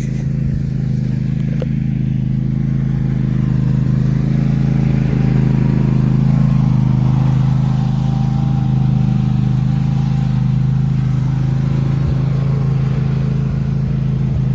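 An engine running steadily at a constant speed: a continuous low drone that does not rise or fall.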